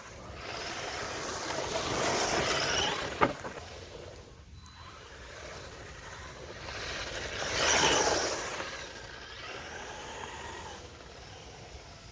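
Maverick Strada RX 1/10 scale brushless RC rally car driving on a dirt woods track. The noise of its motor and tyres on the dirt swells as it comes close, about two seconds in and again more loudly about eight seconds in. A single sharp click comes just after three seconds.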